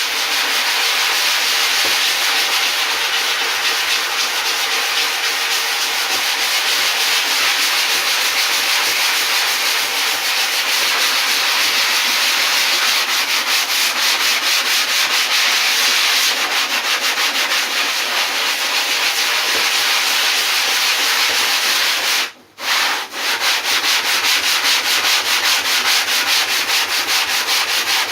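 Sandpaper on a hand sanding block rubbed back and forth over cured foam fill in a surfboard repair, a continuous scratchy rasp of strokes. It pauses briefly about 22 seconds in, then resumes.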